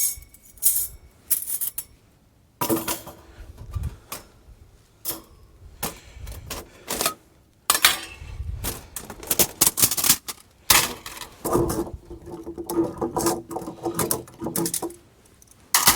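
Small collapsible camp wood stove being taken apart and packed into its bag: its pieces clink, clatter and scrape in irregular bursts.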